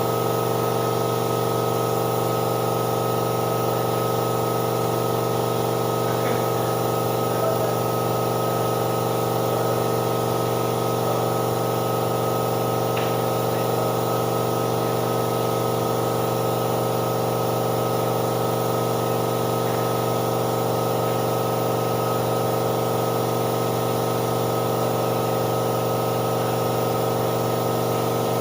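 Air compressor for spray painting running steadily: a constant, unchanging hum with a hiss over it.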